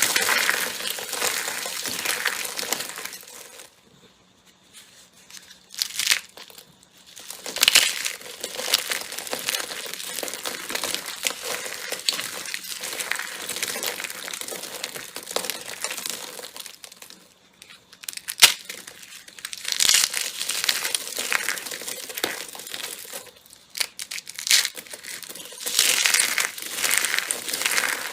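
Slime being squeezed and pressed by hand close to the microphone, giving dense crackling and crinkling, with a few sharp pops. It breaks off briefly twice, about four seconds in and again near the middle.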